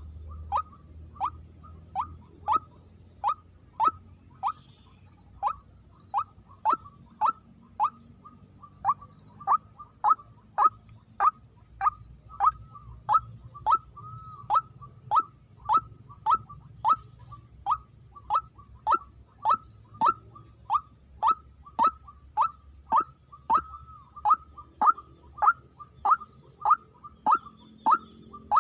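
White-breasted waterhen calling: a long series of short, sharp, falling notes, one after another, that quickens from about one and a half to about two a second.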